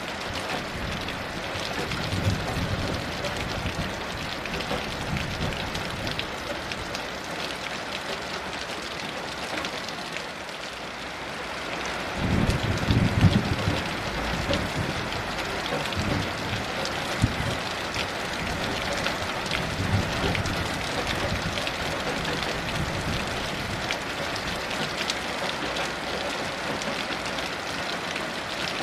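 Steady heavy rain hissing and pattering, with low rumbles of distant thunder swelling in several times, the loudest about halfway through.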